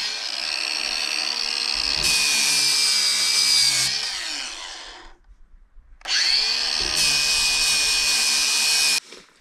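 Power grinder grinding down cracked fiberglass on a boat hull, run twice: each run spins up to a steady whine, then goes harsher and hissier while the disc bites the fiberglass. The first run winds down with falling pitch; the second stops abruptly near the end.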